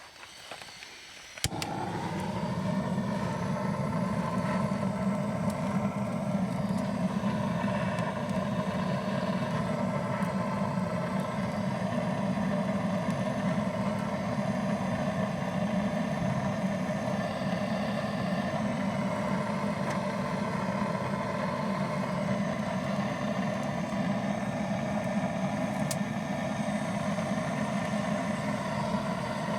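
A gas burner lit with a sharp click, then a steady roar of the flame that holds on unchanged, as when a torch is used to start a fire.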